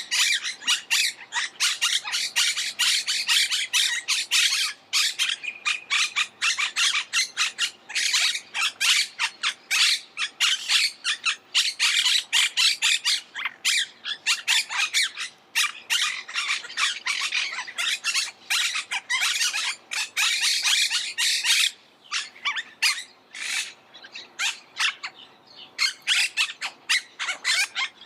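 Monk parakeets squawking: a dense, rapid run of harsh, chattering calls from several birds, easing briefly twice before picking up again.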